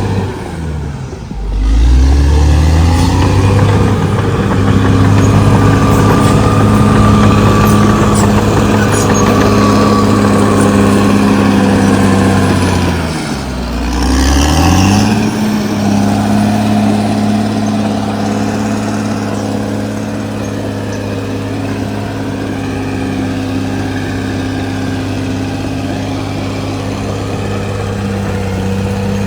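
Caterpillar D6R XL bulldozer's diesel engine running hard and steady. Its pitch drops sharply and climbs back up twice, about a second in and again about thirteen seconds in.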